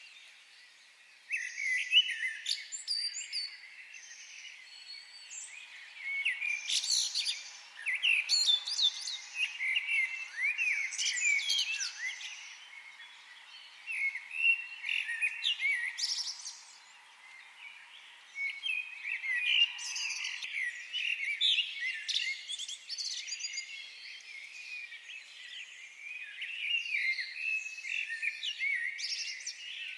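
Several forest songbirds singing and chirping, rapid high trills and tweets coming in bursts every few seconds.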